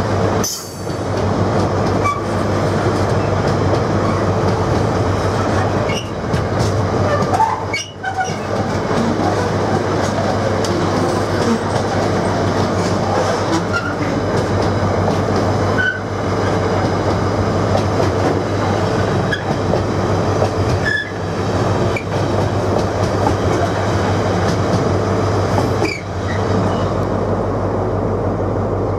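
Container freight train's wagons rolling past close by: a steady rumble with the wheels clattering over the rails.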